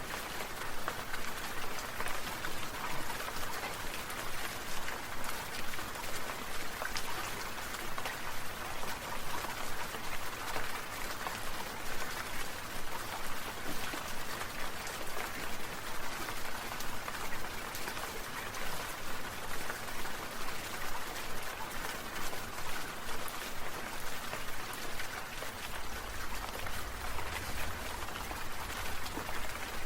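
Water sprinkler spray falling like rain, a steady dense patter with a regular pulse in loudness.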